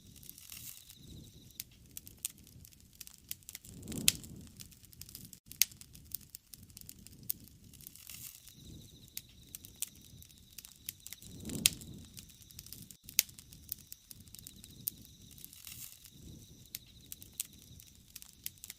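Wood bonfire crackling, with many sharp pops and snaps scattered throughout. A low rush of flame swells up three times, about four seconds in, near the middle and at the end.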